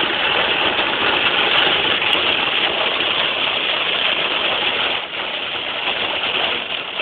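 Heavy rain on a moving car and tyres hissing through water on the road, heard from inside the cabin as a steady loud wash that eases slightly about five seconds in.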